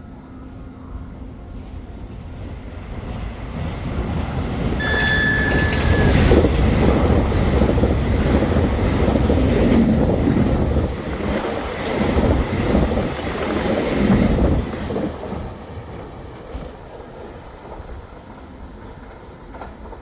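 Taiwan Railway train passing along the platform: a rumble and clatter of wheels on the rails that builds up, stays loud for about nine seconds, then fades away. A brief high tone sounds about five seconds in.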